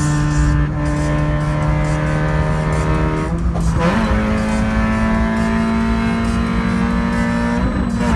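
Toyota Paseo's engine running under load, heard inside the cabin. Its note holds steady, then rises in pitch about four seconds in, holds at the higher pitch and drops back near the end.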